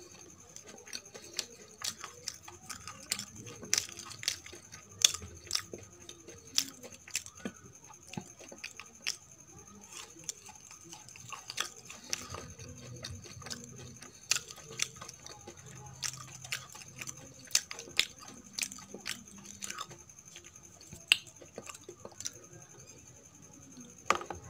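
Close-miked chewing of soft Indian sweets: wet mouth clicks and smacks, several each second, with a sharper click near the end.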